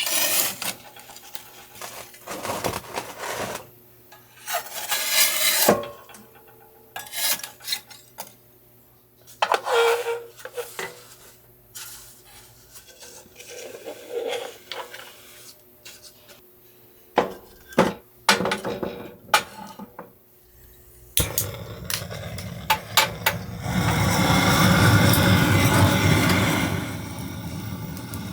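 Clatter, knocks and scraping of hard objects being handled, a stretch of separate bangs and rubs. About three-quarters of the way in, a steady rushing noise starts and swells for a few seconds before easing near the end.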